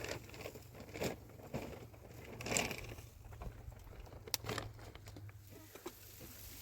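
Scattered light rustles, clicks and knocks over a faint low hum.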